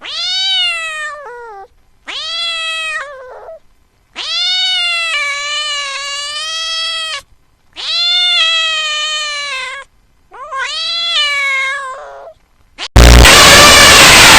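A cat meowing five times in long, drawn-out meows, each rising at the start and falling away at the end. Near the end a sudden loud burst of noisy sound cuts in.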